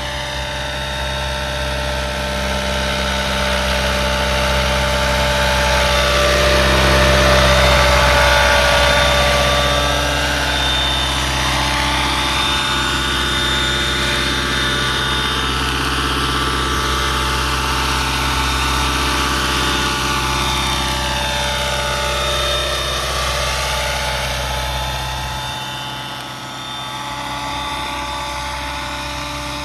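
Electric RC helicopter flying: a Roban 600-size Airwolf scale helicopter on stretched Align T-Rex 550e mechanics. Its motor and rotor make a steady whine with a whooshing rotor wash that sweeps up and down as it moves. The sound swells about seven seconds in and dips briefly near the end.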